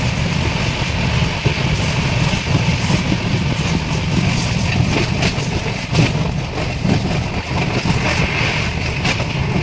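Steady running noise of the Duronto Express passenger train in motion: a continuous low rumble with a hiss above it and scattered light clicks.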